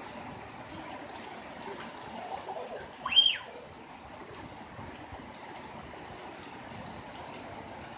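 Rain falling steadily, a constant even hiss. About three seconds in, one brief high squeal rises and falls in pitch and is the loudest sound.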